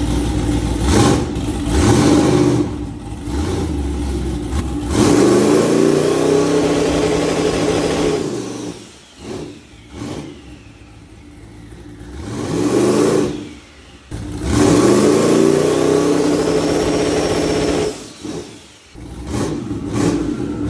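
Turbocharged drag-car engine revved up three times against the torque converter, its pitch climbing and then holding steady near the limiter, with a faint turbo whistle rising as boost builds.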